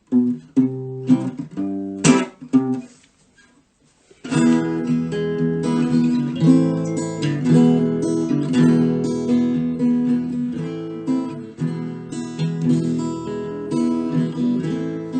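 Acoustic guitar song intro without vocals: a few strummed chords, a break of about a second, then steady strumming.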